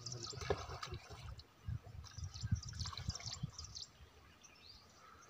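Small birds chirping in runs of quick, high, falling notes, once at the start and again about two to three and a half seconds in, over the faint wash of river water and a few low rumbles.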